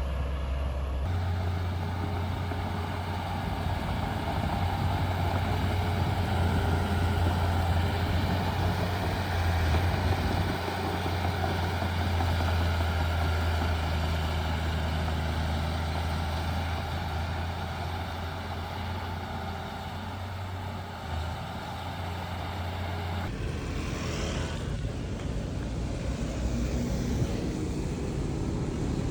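Heavy diesel earthmoving machinery running steadily with a deep drone. The sound changes abruptly about a second in and again near the end.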